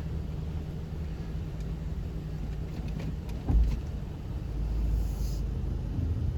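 Vehicle engine idling with a steady low rumble, and a single thump about three and a half seconds in.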